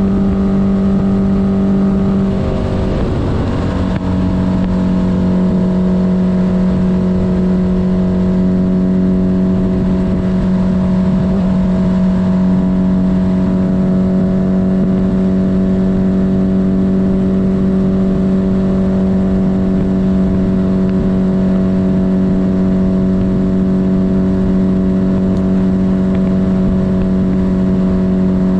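1972 Honda CB500's inline-four engine running steadily under way. Its note briefly breaks up about three seconds in, then settles a little lower and holds steady.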